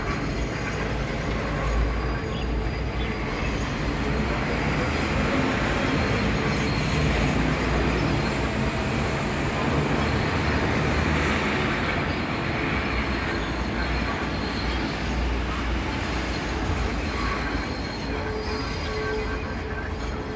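Long electric passenger train rolling slowly through a multi-track rail yard: a steady rumble of wheels on rails, growing louder toward the middle and easing off near the end.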